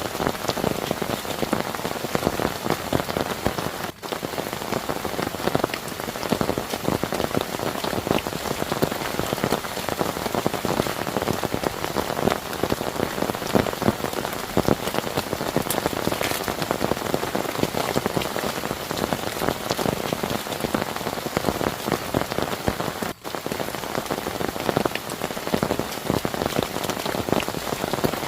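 Heavy rain falling steadily, a dense patter of drops on a surface. The sound drops out for an instant twice, about 4 seconds in and near the end.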